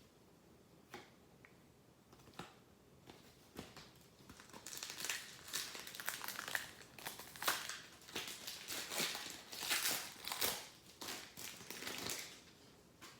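A foil trading-card pack wrapper being torn open and crinkled by hand. A few light clicks come first, then a few seconds of dense, irregular crinkling that stops shortly before the end.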